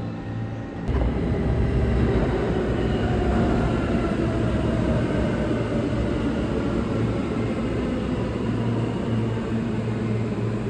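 New York City subway train running through the station: a steady loud rumble and rail noise with a motor whine that slowly falls in pitch, as a train slowing down. The sound jumps suddenly louder about a second in.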